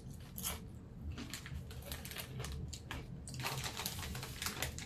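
Crunchy snack chips being chewed: a quick, irregular run of sharp crackles.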